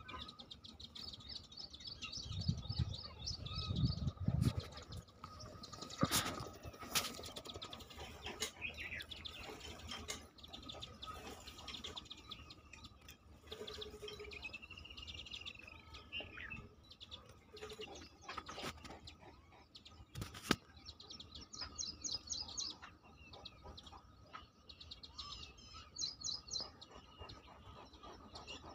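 Birds chirping in short, rapid trills, repeated several times, with a few low thumps and sharp clicks in between.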